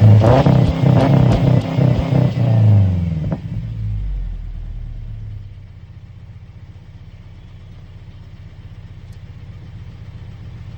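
Subaru Outback boxer engine through a Nameless dual-chamber exhaust with a 5-inch muffler. It is revved for the first three seconds or so, then falls back and settles to a steady idle rumble about five seconds in.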